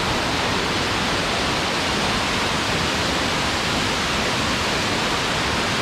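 Waterfall pouring, a loud, steady, even rush of water heard close to the foot of the fall.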